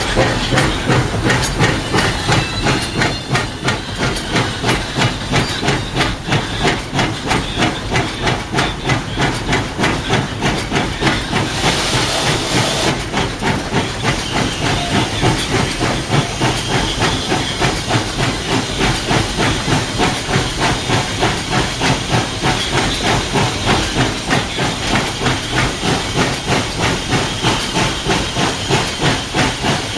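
Baldwin 4-6-0 narrow-gauge steam locomotive heard from its cab, working along with a fast, steady chuffing exhaust and hissing steam. A louder hiss of steam comes in for about a second, some twelve seconds in.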